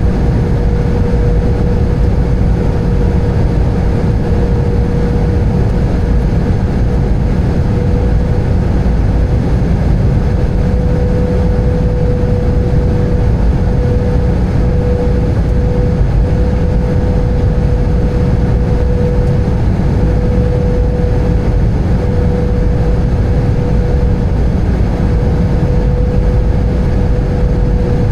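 Airbus A320 cabin noise in flight: a steady low rumble of engines and airflow, with a steady mid-pitched engine tone held throughout.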